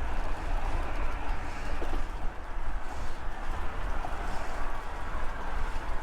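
Steady wind rumble on the microphone over a constant hiss of traffic and road noise, with no single event standing out.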